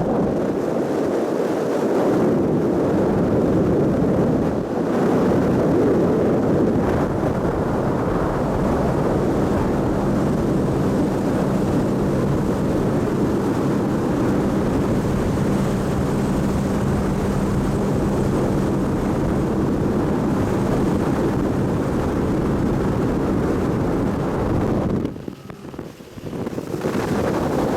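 Motorboat under way: its engine runs steadily under a loud rush of wind on the microphone and water along the hull. The sound drops away for about a second near the end, then comes back.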